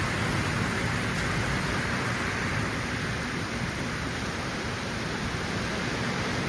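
Rain falling steadily in a storm: a constant hiss with no breaks.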